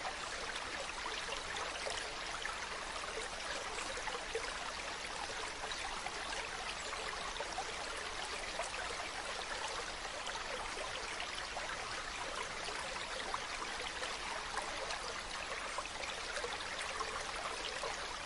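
Mountain stream running steadily over rocks, a continuous even rush with fine splashing and trickling.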